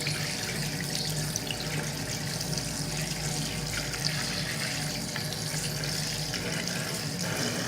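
Tap water running steadily into a sink over an action camera's circuit board as it is rinsed clean.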